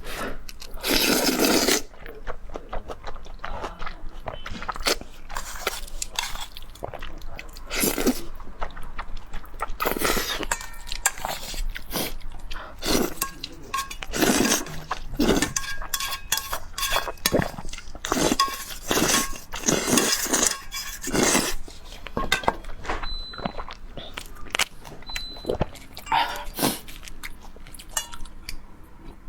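Close-up eating sounds: irregular crunches and bites of food, with a few light clinks of dishes or utensils.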